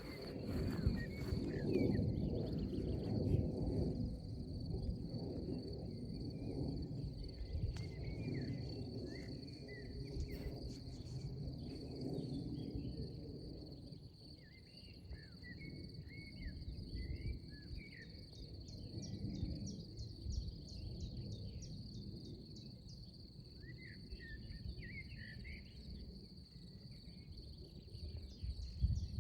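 Countryside ambience: a steady high insect trill with scattered short bird chirps over it, and a low wind rumble on the microphone that is strongest in the first few seconds.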